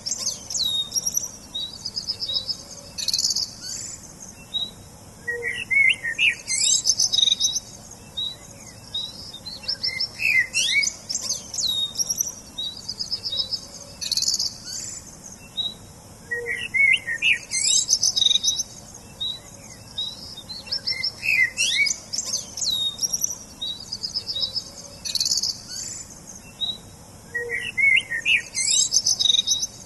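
Small songbirds chirping and singing in short high twittering and trilled phrases, with lower chirps in between. The same sequence of phrases repeats about every eleven seconds, as in a looped recording.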